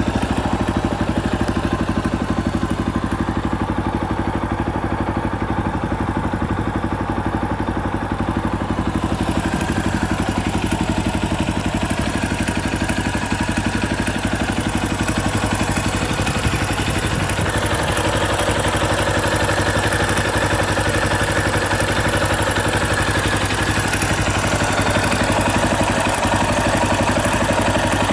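Yamaha Tricker XG250's air-cooled single-cylinder engine idling steadily, with the abnormal mechanical noise that is put down to the cam chain tensioner.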